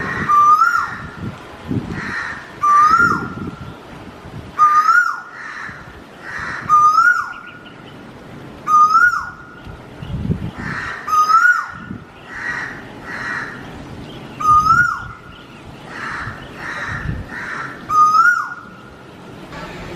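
Asian koel calling: a clear whistled note that rises and then drops away sharply, repeated about every two seconds, with fainter harsher calls in between.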